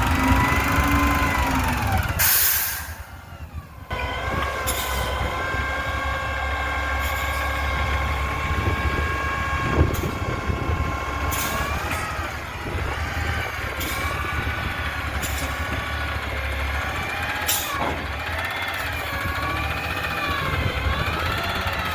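Garbage truck running while it empties a dumpster: the engine and hydraulics whine and change pitch as the load moves. A loud burst of air hiss comes about two seconds in, and short sharp knocks or hisses come several times after it.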